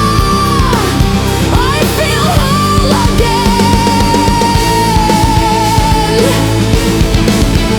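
Heavy rock music without vocals. A lead instrument holds long notes with bends and vibrato over steady drums and bass.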